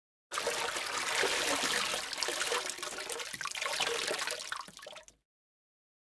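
Water rushing and splashing as a steady noisy wash. It starts suddenly, weakens towards the end and cuts off about five seconds in.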